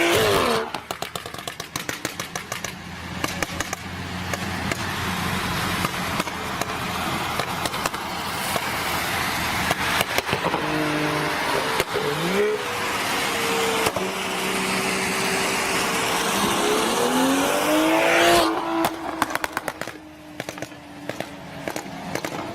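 Car engine revving up and falling back, twice, over a steady rush of traffic noise. Rapid crackling and popping follows as the revs drop.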